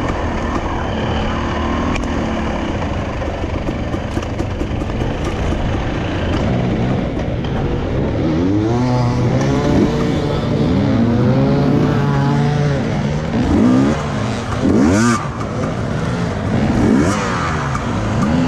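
Enduro motorcycle engine running, then revving up and down in quick rises and falls from about halfway through.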